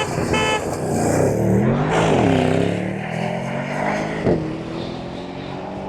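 A car engine running under load, its pitch dipping and then climbing about two seconds in, then a sharp click a little past four seconds followed by a step down in pitch.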